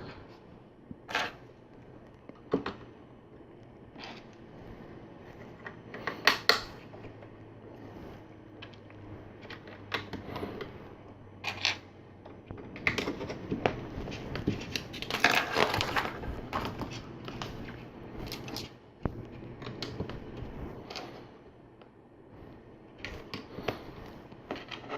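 Small plastic LEGO pieces clicking and rattling as they are picked through and pressed together, in scattered short clicks with a busier stretch of handling about two thirds of the way in.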